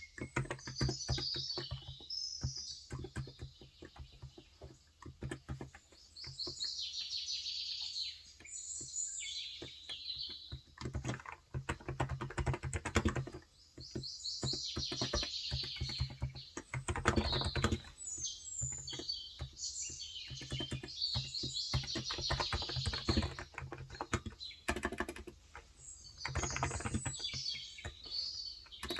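Typing on a Cox Endeavour electro-capacitive 35 g tenkeyless keyboard: a continuous, uneven patter of soft keystrokes. Small birds chirp and twitter on and off over the typing.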